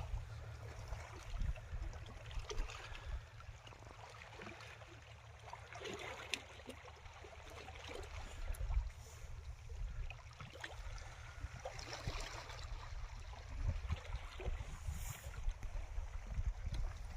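Water lapping and splashing at the sea's edge over a steady low rumble, with scattered small knocks and clicks.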